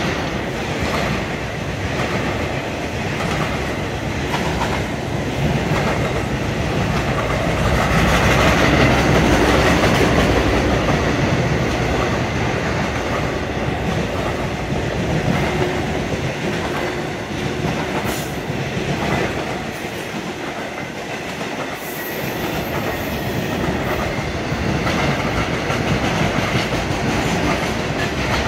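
Intermodal freight cars of a passing train rolling by: a steady rumble of steel wheels on rail with a recurring clickety-clack of wheels over rail joints, and a faint high wheel squeal about three-quarters of the way through.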